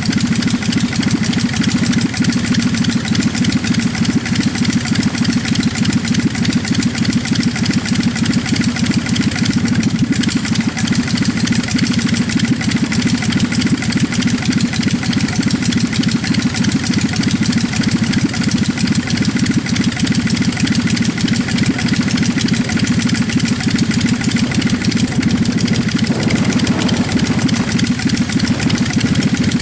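40 hp Mosler half-VW two-cylinder engine of a Preceptor N3 Pup ultralight running steadily at low power with the propeller turning.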